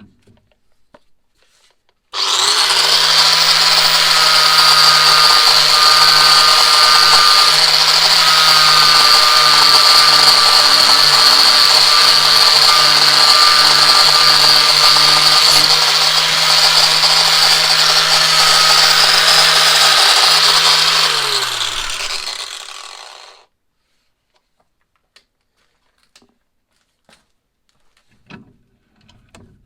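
Electric power tool motor switched on, running steadily for about twenty seconds, then switched off and spinning down with a falling pitch.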